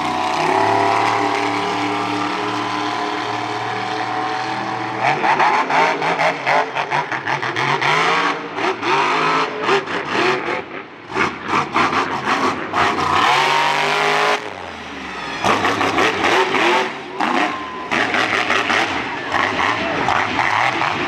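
Monster truck engine at full throttle during a freestyle run. It holds a steady high note for the first few seconds, then revs up and down unevenly, lifting off the throttle briefly twice midway.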